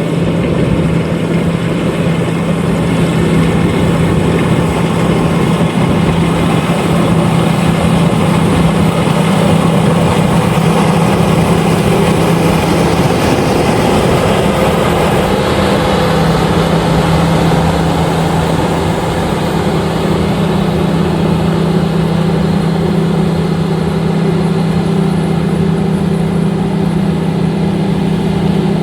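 LOVOL RG130EVO combine harvester running steadily under load, a loud constant engine hum over dense machinery noise. The pitch wavers briefly about halfway through.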